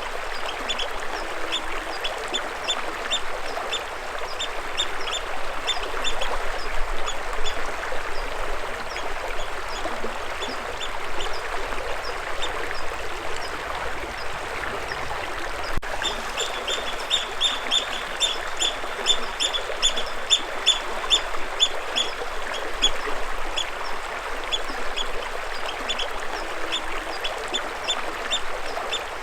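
Water running steadily, with a bird calling in quick runs of short, high chirps, about three or four a second, at the start and again through the second half.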